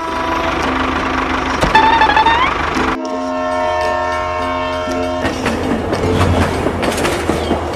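A continuous rumbling, rattling vehicle noise, with a steady horn blast of about two seconds starting about three seconds in and a short rising whistle-like tone just before it.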